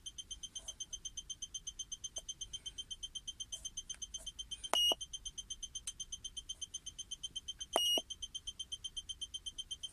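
Rapid electronic warning beeping, a high pip about eight times a second without pause. Two longer, louder beeps break in near the middle.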